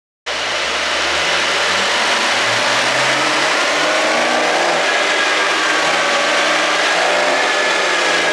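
Porsche 911 992 Targa 4S's twin-turbo 3.0-litre flat-six engine running, cutting in abruptly about a quarter second in; its low pitch shifts over the first few seconds, then it holds steady.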